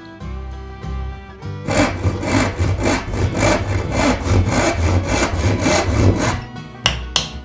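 Hand saw cutting wood in quick, even back-and-forth strokes, about three to four a second. The strokes start a couple of seconds in and stop near the end.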